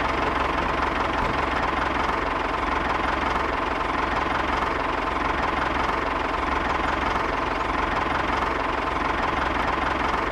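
Tractor engine idling steadily, an even diesel-like running sound that stays the same throughout.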